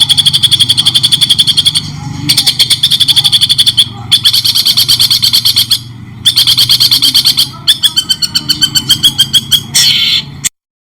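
Songbird singing fast runs of rapidly repeated high notes, several a second, in phrases separated by short pauses, over a steady low hum. The song cuts off abruptly near the end.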